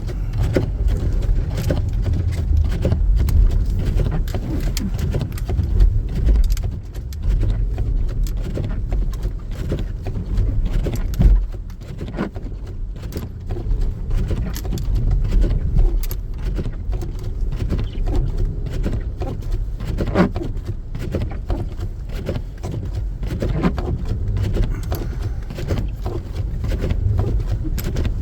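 2014 Jeep Grand Cherokee driving slowly off-road over rough, snow-covered ground: a steady low rumble with frequent knocks and clatters from the body and suspension as it goes over the bumps.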